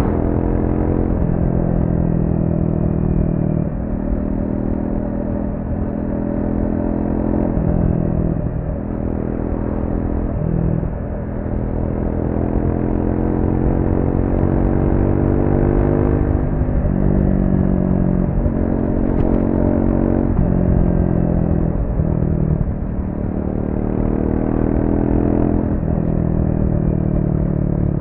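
Triumph Speed 400's single-cylinder engine on its stock exhaust, ridden hard: the revs climb and fall back again and again as the bike accelerates and comes off the throttle. A low rumble of wind and road runs under it.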